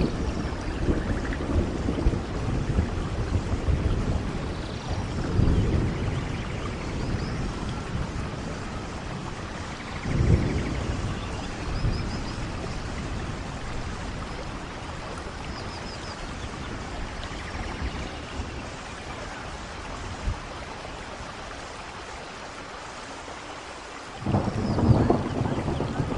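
Steady rain falling in a forest, with low rumbles that swell and fade several times and the loudest one near the end.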